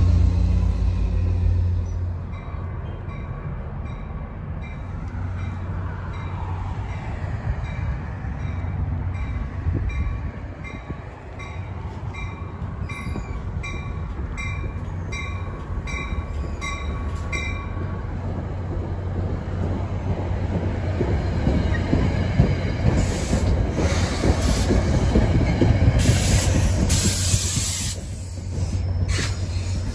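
Diesel locomotive engine running as it pulls away, fading in the first couple of seconds. A bell then dings at a steady beat for about sixteen seconds. A diesel commuter train then rolls in louder and louder, its wheels squealing and rumbling on the rails as it pulls alongside the platform.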